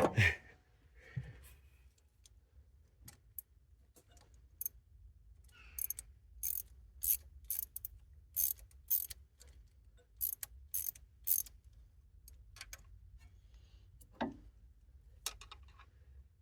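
Ratchet spanner clicking in short irregular runs of sharp clicks, thickest in the middle, as a stuck fastener is worked that will not come out. A single duller knock near the end.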